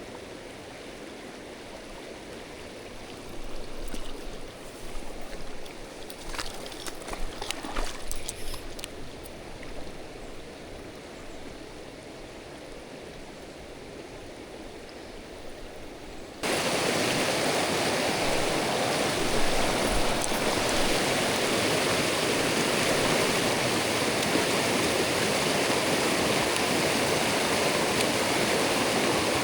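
Mountain stream water running over rocks, a steady rush. It is softer in the first half, with a few short clicks and rustles, then jumps abruptly to a much louder, fuller rush about halfway through.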